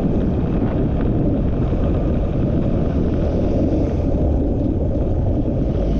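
Steady low rumble of a vehicle travelling along a road, with wind buffeting the microphone.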